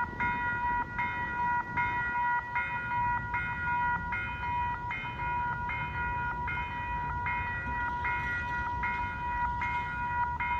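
Railroad grade-crossing warning bell ringing steadily, a high ringing tone repeating a little more than once a second, over a low rumble.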